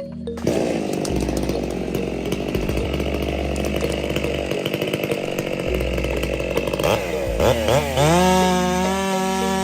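Gasoline chainsaw cutting through wood under load. Near the end the engine speed dips, then revs back up to a steady high-pitched whine.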